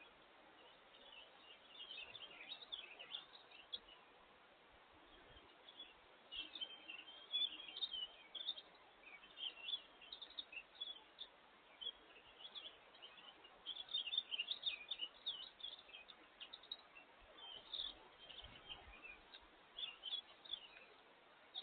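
Small birds chirping: many short, quick high chirps in bunches with brief pauses, over a faint steady background hiss.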